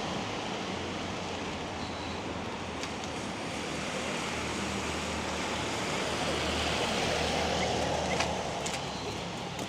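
A car passing on a wet street, its tyres hissing on the water, swelling over several seconds and easing off near the end, over the steady hiss of rain.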